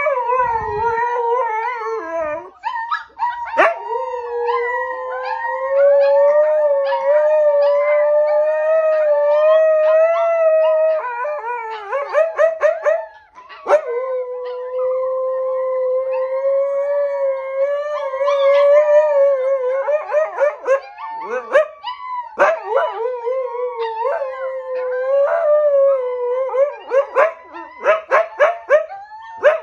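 Mother husky howling in long, steady notes, joined by her puppies' higher, wavering howls. The howling breaks into quick yips a little before halfway and again near the end.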